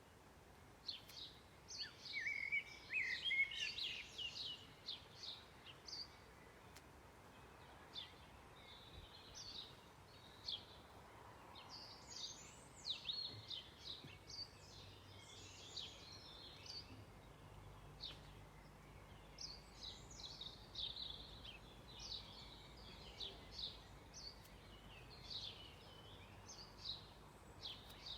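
Several birds singing at dusk: short chirps and song phrases overlapping throughout, with a louder, busier run of song about two to four seconds in.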